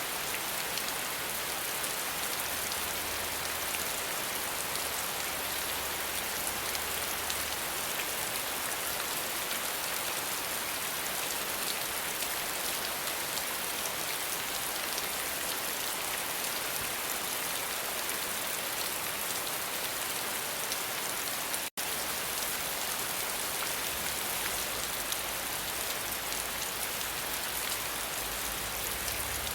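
Steady rain falling, a dense even hiss of many raindrops on a surface, with a split-second dropout about two-thirds of the way through.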